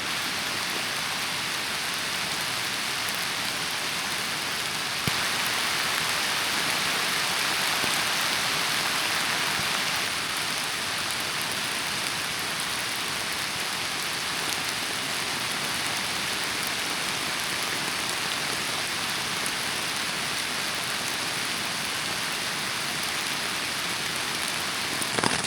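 Rain falling steadily, slightly louder for a few seconds about five seconds in.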